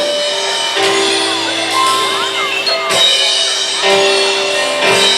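Live gospel band playing between sung lines: held piano chords that change every second or two over a drum kit.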